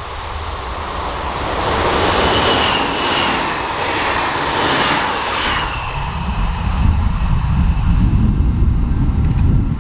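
Train passing at speed on a mainline: a rush of wheel and air noise builds, peaks, and dies away about six seconds in, with a thin whine that falls slightly in pitch as it goes by. After it passes, a low buffeting rumble from wind on the microphone.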